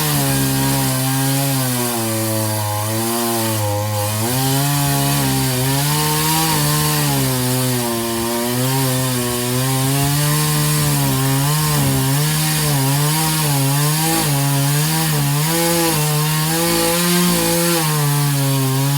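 Power saw cutting through hard wood, its motor running continuously with the pitch dipping and recovering again and again as the blade loads up in the tough wood.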